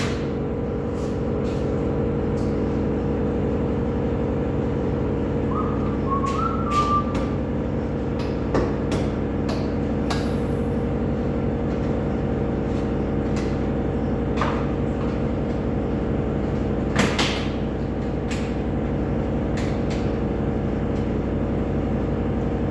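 A motor or machine running steadily, with a few clicks and knocks over it and some short high chirps about six seconds in.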